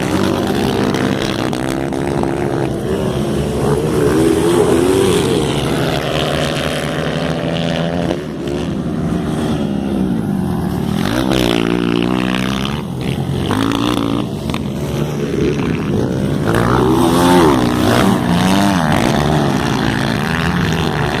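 Several motocross dirt-bike engines revving. Their pitch climbs and drops again and again as they accelerate and ease off, with more than one bike heard at once.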